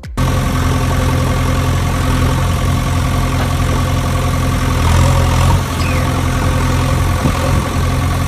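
Vehicle engine idling steadily, cut off for an instant right at the start.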